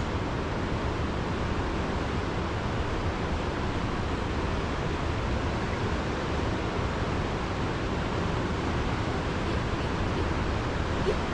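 Steady, even rushing of a river in heavy flood.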